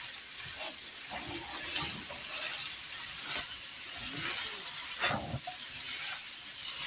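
Sliced Polish sausage sizzling in a hot wok over a gas burner, a steady hiss, with a spatula stirring through it and knocking faintly against the pan.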